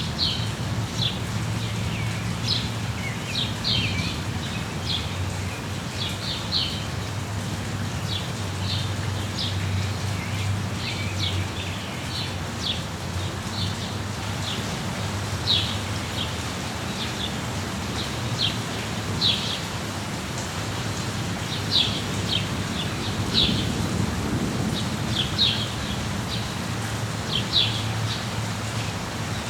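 Steady rain falling, with a low rumble underneath. Small birds chirp over it in short, high notes, often in quick clusters.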